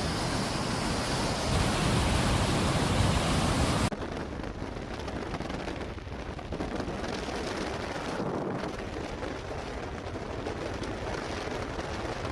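Steady rushing noise with no distinct pitch, like wind and road noise on a moving vehicle. It is louder for about the first four seconds, then cuts abruptly to a quieter rush.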